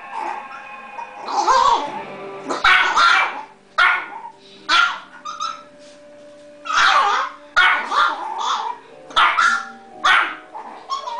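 About a dozen sharp, high yapping barks from a tiny dog, mixed with a man mimicking her barking, over background music from a television.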